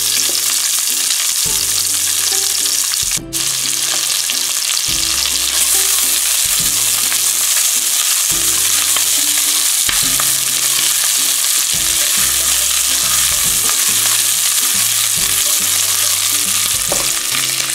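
Diced onions sizzling in hot oil in a nonstick frying pan, stirred and turned with a spatula.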